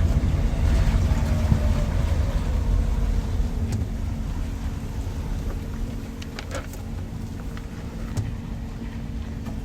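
Rain ambience with a vehicle engine rumbling low and slowly fading away, over a light hiss of rain, with a few sharp taps.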